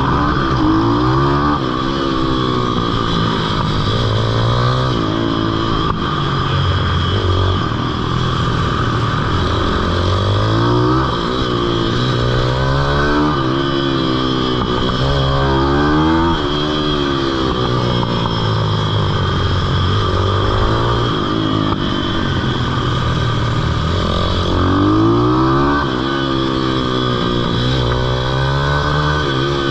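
Pitbike's small single-cylinder engine revving up and dropping back again and again, as the bike accelerates out of corners and slows into the next around a kart track.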